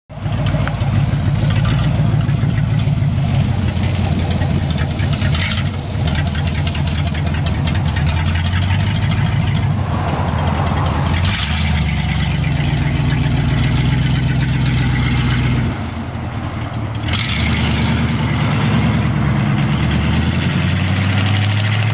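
1959 Cadillac hearse's V8 engine running with a deep, loud exhaust note as the car pulls out of a driveway and drives off, the pitch rising and falling several times with the throttle. It is the car's first drive after sitting for nearly 30 years.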